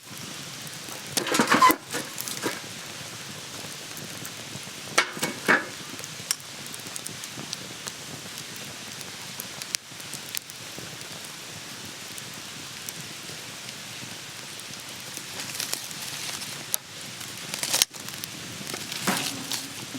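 Campfire burning with a steady hiss and crackle, broken by a few short knocks and rustles of handling near the start, around five seconds in and near the end.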